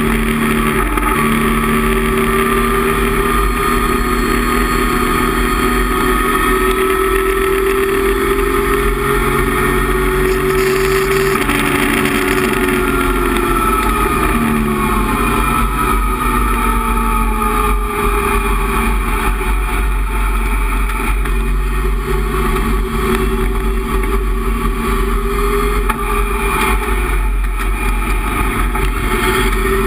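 Datsun 260Z race car's 2.6-litre straight-six engine running hard at high revs, heard from inside the cockpit. Its pitch climbs slowly through the first part, falls away around the middle, then holds fairly steady.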